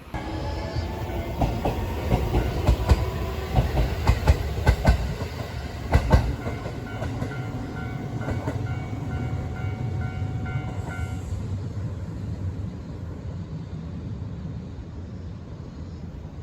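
A train passing: wheels clacking over rail joints in quick rhythmic bursts for the first several seconds, with a steady rumble and a few held tones that then fade as it moves away.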